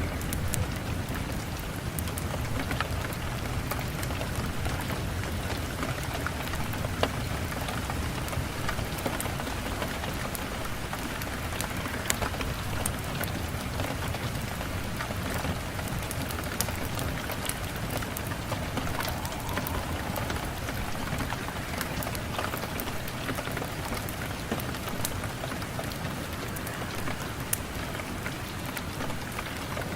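Steady rain with a deep low rumble and many scattered sharp crackles throughout.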